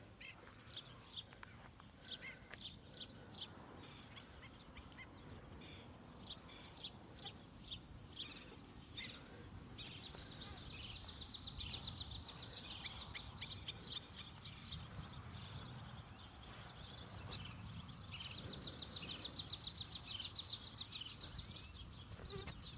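Small birds chirping, with a fast, high, rapid trill starting about ten seconds in and again near the end, over faint steady background noise.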